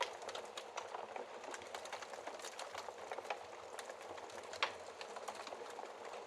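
Wood fire crackling in a fireplace: a steady hiss with frequent small irregular pops, and one louder pop a little past the middle.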